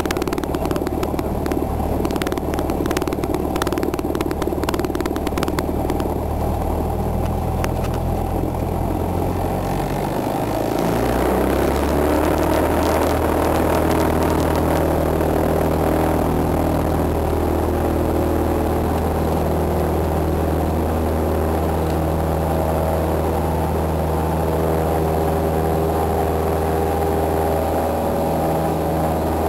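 Cessna 172's piston engine and propeller running steadily, with a rattly edge in the first part. About ten seconds in the note dips briefly, then comes back louder at a new pitch, a power change.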